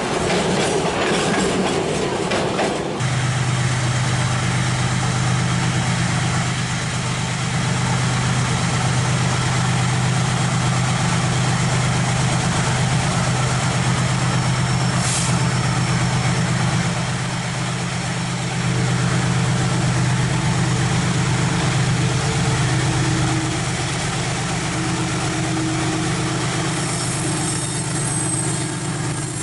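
Freight train cars rattling over the rails for about the first three seconds, then a diesel locomotive engine running steadily in a low drone.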